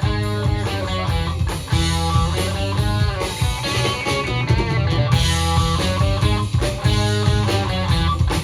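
Live band playing an instrumental passage of a rock song, with guitar to the fore over bass and drums.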